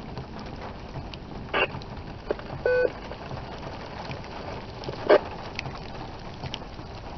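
Steady hiss of static from a two-way radio receiving an amateur radio repeater, with a few short clicks and a brief electronic beep about three seconds in.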